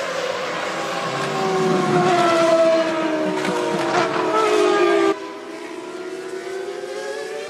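Formula One cars' V10 engines running at high revs, several engine notes gliding up and down in pitch as cars go by. The sound drops abruptly about five seconds in.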